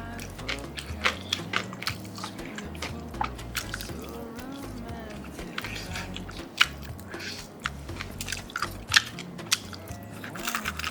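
Crunching and chewing of crispy fried chicken, with sharp crunches at irregular moments throughout.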